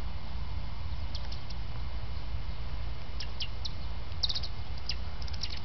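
Northern cardinals giving short, sharp high chip notes, scattered singly and in quick runs of three or four.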